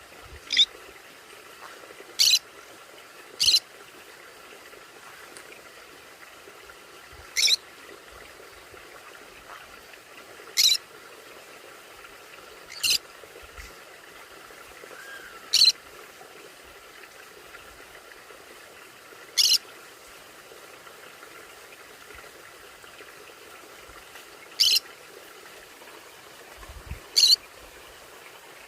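Conure parrot giving short, sharp, harsh calls, about ten single squawks at irregular intervals a few seconds apart, over a faint steady hiss.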